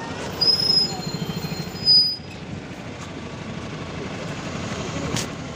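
MAZ-257 coach running, heard from inside, a steady low rumble. In the first two seconds there are brief high squeals and two loud knocks, the second, about two seconds in, the loudest, with a sharp click near the end.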